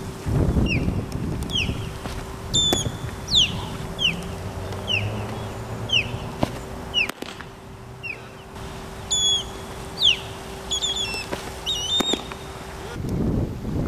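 A songbird singing a series of short, clear, down-slurred whistled notes, about one a second, with a quicker, more varied phrase near the end, over a steady low hum.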